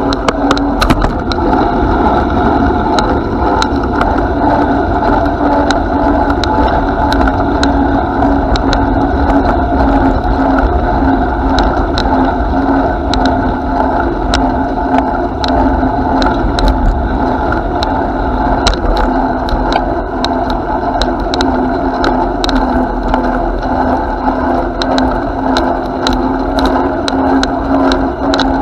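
Bicycle riding along a path: a steady rolling noise from the tyres and wind, with a constant hum and frequent small rattling clicks from the bike.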